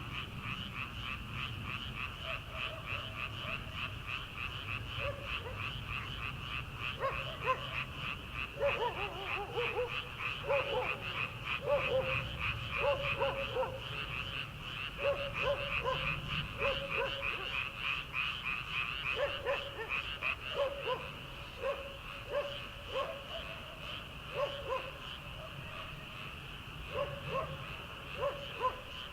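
Dense chorus of paddy frogs calling together: a steady, high-pitched mass of rapid pulsing calls. From about seven seconds in, a lower, louder call repeats about once a second over it.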